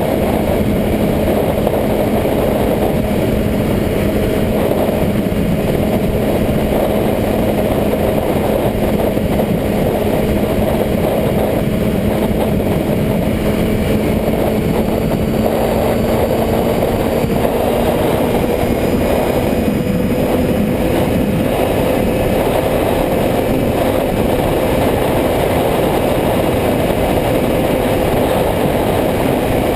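Motorcycle engine running steadily under a constant rush of noise, its pitch creeping slowly upward around the middle.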